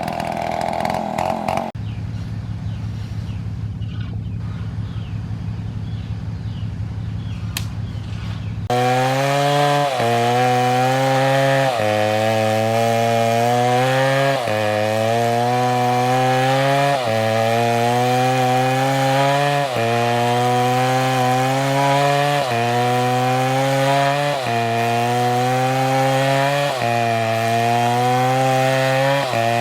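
Stihl chainsaw at high revs, dropping to a steady idle for several seconds, then running loud through an oak log, the engine pitch sagging and recovering about every two and a half seconds as it takes load in the cut.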